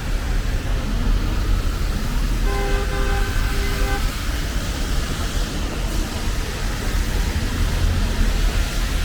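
Steady city street traffic noise with a low rumble, and a vehicle horn sounding a few short toots about two and a half seconds in.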